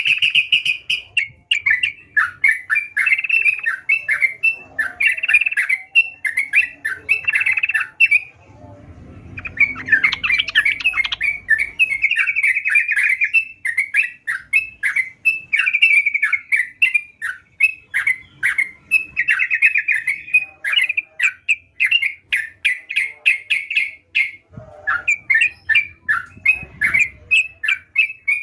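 Yellow-vented bulbul (trucukan) singing hard: rapid chattering, bubbling phrases that run almost without a break, with one short pause about eight seconds in.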